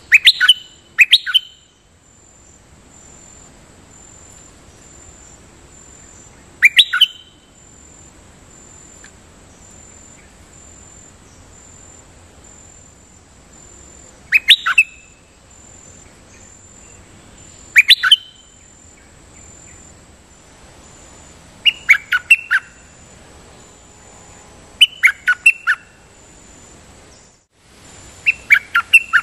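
A nok dok taeng bird calling in short, sharp bursts of a few quick high notes, about eight bursts spaced several seconds apart.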